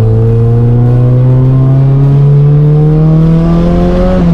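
Nissan S14's turbocharged SR20 four-cylinder engine accelerating under load, its pitch climbing slowly and steadily, then falling near the end as the revs drop. The slow build is what the driver calls very laggy.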